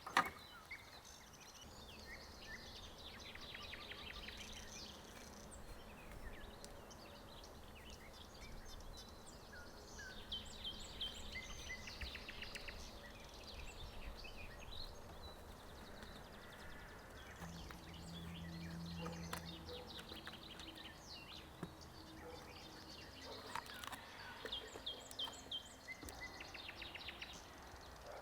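Forest birds singing and calling: many short chirps, trills and quick repeated high notes from several birds, over a faint steady background. A sharp knock comes right at the start, and a short low hum about two-thirds of the way through.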